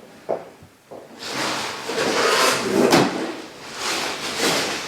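Handling noise from unpacking a telescope tripod and its parts: a light click, then scraping and rustling with a couple of sharper knocks around the middle.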